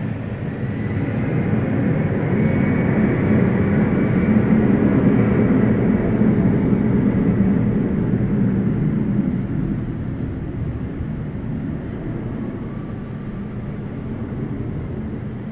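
Jet airliner's engines passing close by: the noise swells to a peak about four to six seconds in, then slowly fades away, with a faint high whine in the first few seconds.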